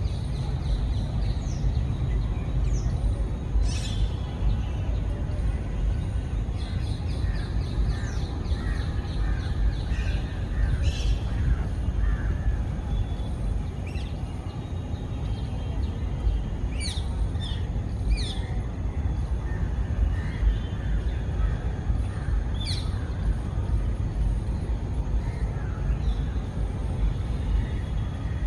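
Outdoor ambience dominated by a steady low rumble, with about half a dozen short, high bird calls that sweep downward, scattered a few seconds apart.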